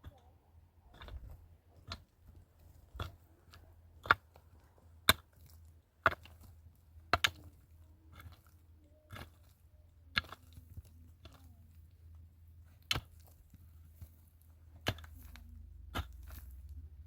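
A series of sharp strikes, about one a second, with a short pause a little past the middle.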